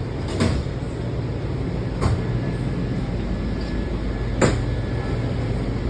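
Washington Metro train running with a steady low rumble, broken by three sharp knocks, the last and loudest about four and a half seconds in.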